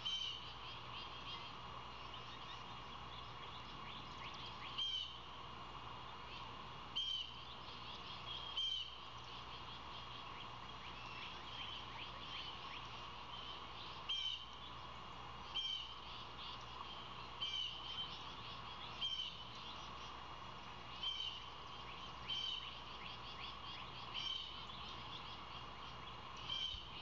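A small bird repeating a short, high call a dozen times at irregular gaps of a second or several, over a steady high-pitched background hum.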